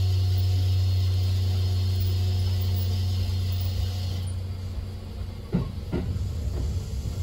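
Kintetsu electric train running, heard from the driver's cab: a steady low hum with a high hiss that cuts off about four seconds in. After that come a few knocks of the wheels over rail joints.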